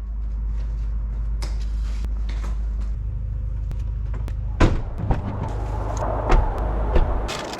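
Steady low rumble of a car driving, with a few sharp clicks and knocks scattered through it.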